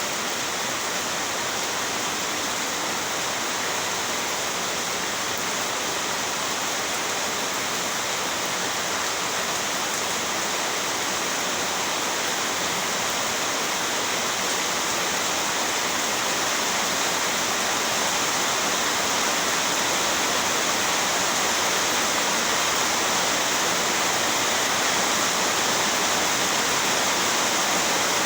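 Heavy rain pouring down steadily as an even, dense hiss that grows slightly louder over the stretch.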